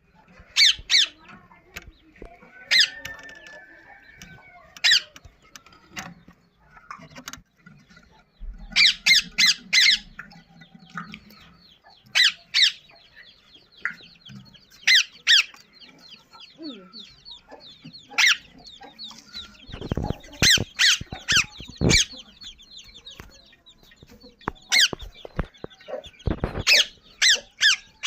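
Birds calling, short sharp high calls in quick runs of two to four every few seconds, over faint continuous peeping, with a few low knocks about two-thirds of the way through.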